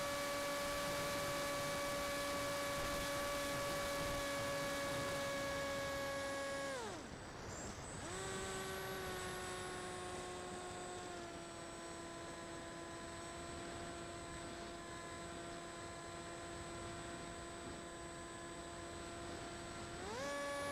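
Electric motor and propeller of an RC flying wing whining at a steady pitch. About seven seconds in the throttle comes off and the whine drops away. It then returns at a lower pitch, steps down a little again, and climbs back up near the end.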